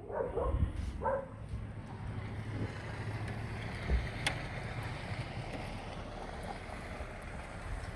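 Snowstorm wind blowing hard, its gusts rumbling and buffeting on the microphone, with a single sharp click about halfway through.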